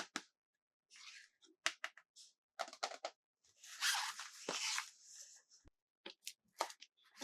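Toy packaging being handled and opened: scattered clicks and crinkles, then a longer tearing, crackling stretch about halfway through.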